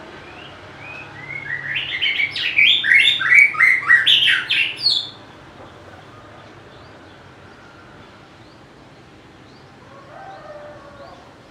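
White-rumped shama singing: a loud phrase of quick, varied whistled notes lasting about four seconds. A faint, lower call follows near the end.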